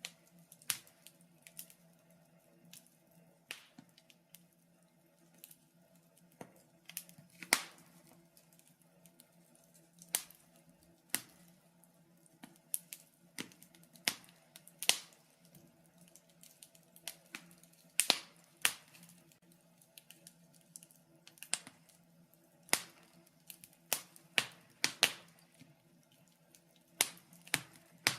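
Wood fire crackling: irregular sharp pops and snaps from the burning logs, a few louder ones standing out, over a low steady hum.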